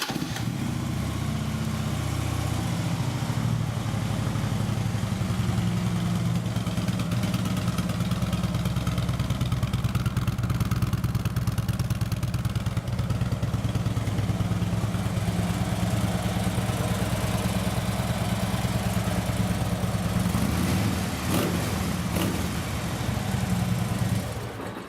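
2011 Harley-Davidson Street Glide's 96-cubic-inch fuel-injected Twin Cam V-twin idling steadily, then cutting off just before the end.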